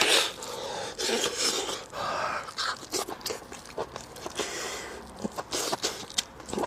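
Close-miked eating of braised pork shank: a few long breathy mouth noises, then quick wet chewing clicks over the last couple of seconds.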